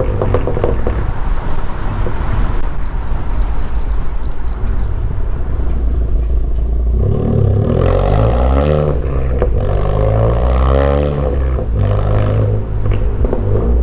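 Straight-piped exhaust of a turbocharged four-cylinder Honda Accord under acceleration: a rough, noisy engine note for several seconds, then the pitch climbs, breaks at a gear change, and climbs again before dropping back.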